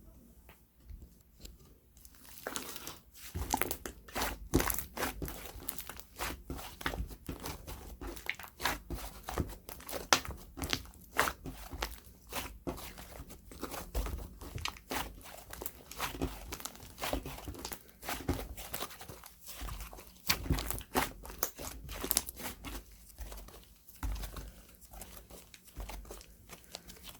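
Packaging of a green tea cream bread crinkling and tearing as it is handled: a dense run of irregular crackles with short pauses, starting about two seconds in.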